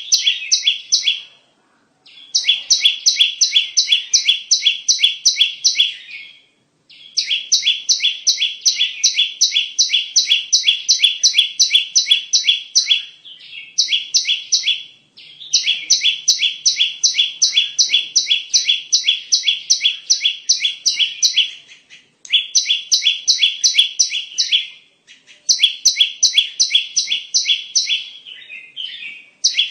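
Bar-winged prinia (ciblek) calling: long runs of rapid, sharp, evenly repeated high notes, about four or five a second, broken by short pauses. A bird-lure call used to draw in ciblek.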